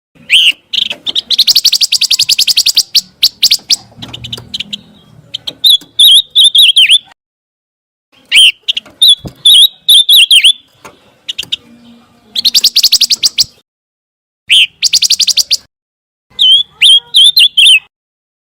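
Pancawarna bird singing in a string of short phrases with brief pauses: fast, rattling trills alternate with quick runs of wavering, whistled notes.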